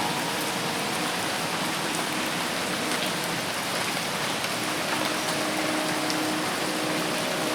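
Dense rain falling steadily on forest foliage: an even, unbroken hiss of many drops.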